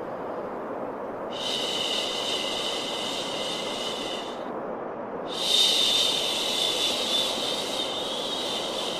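Steady white noise with long 'shhh' shushing sounds over it, the kind used to calm a crying baby: one starts about a second in and lasts about three seconds, and the next begins just past the halfway mark and is still going at the end.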